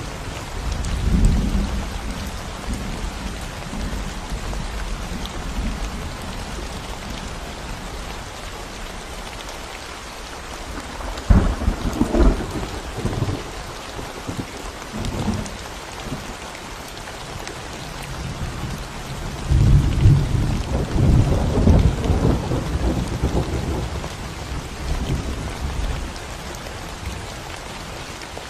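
Steady rain falling on a concrete road, with low rumbles of thunder rolling in three times: briefly about a second in, a sharper crack and rumble about eleven seconds in, and a long rolling peal from about twenty seconds in that fades out a few seconds before the end.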